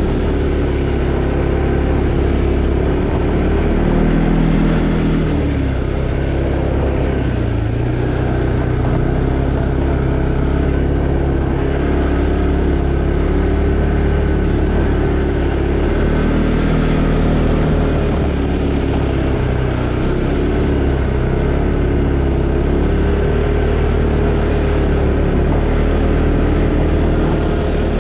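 Arctic Cat Alterra 700 ATV's single-cylinder four-stroke engine running under way, its note rising and falling in pitch every few seconds as the throttle changes.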